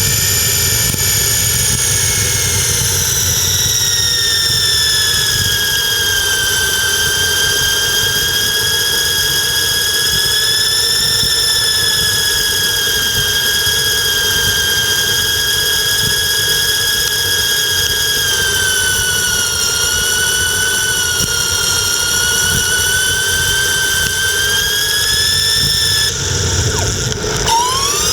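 48 V, 600 W geared hub motor of an electric bicycle whining under power, over a low rumble of wind and tyres. The pitch drifts slowly with speed, then drops and climbs sharply again near the end.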